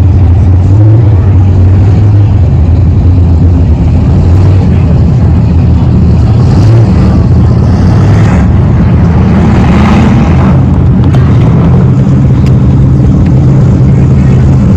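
Race car engines running very loud during a race, a dense low drone whose pitch rises and falls as the cars accelerate and pass.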